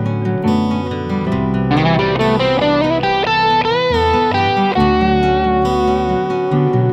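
Electric guitar on its neck pickup, played through a mild overdrive into an amp simulator, playing a melodic lead line. A note is bent and shaken with vibrato about halfway through, then a long note is held. Underneath is a backing of fingerpicked acoustic-guitar arpeggios and bass guitar.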